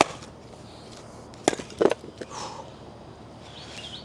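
Pieces of firewood knocking and clattering as they are handled: one sharp knock at the start and a quick pair of knocks about a second and a half in.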